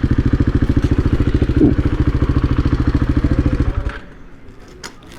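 KTM 690 Enduro's single-cylinder four-stroke engine idling with a steady, even beat, then shut off about four seconds in.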